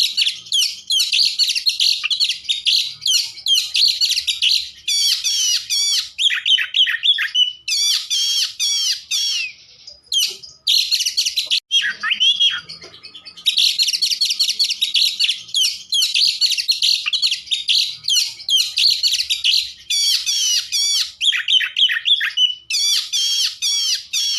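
Oriental magpie-robin (kacer) singing a dense, high-pitched song of rapid, varied trills and whistles. It pauses briefly about ten seconds in and again around twelve seconds, where a lower, quieter phrase is heard.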